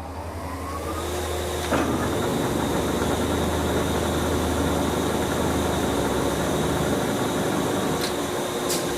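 1974 Lodge & Shipley Superturn engine lathe running, its spindle and geared headstock coming up to a faster speed. The sound grows louder over the first couple of seconds, with a clunk about two seconds in, then settles into a steady whirring hum with a constant whine. Two light clicks come near the end.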